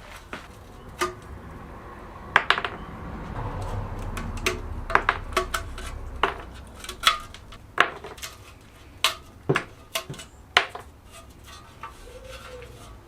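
Small metal parts and hand tools clinking and knocking as they are handled: about fifteen sharp, irregular strikes, some ringing briefly.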